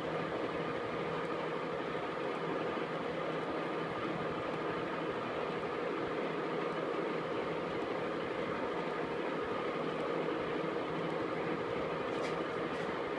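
KART E1N metal lathe running steadily, a constant mechanical hum with a steady whine from its motor and gearing, and a few faint ticks near the end.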